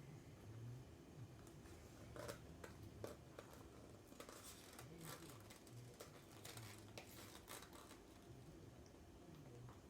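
Near silence with faint, scattered clicks and short rustles of small objects being handled.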